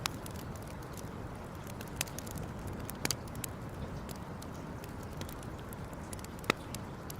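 Campfire crackling, with scattered sharp pops over a steady low background rush; the loudest pop comes about six and a half seconds in.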